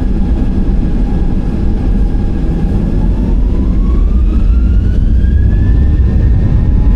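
Jet airliner engines running with a heavy rumble, and a whine that rises steadily in pitch from about three seconds in.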